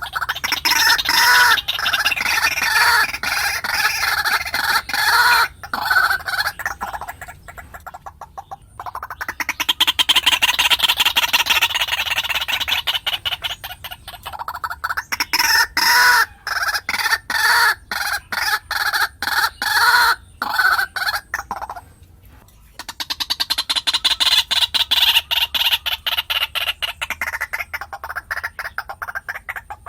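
White-breasted waterhen calling: loud, rapidly repeated croaking notes in long bouts of several seconds, with short breaks between them.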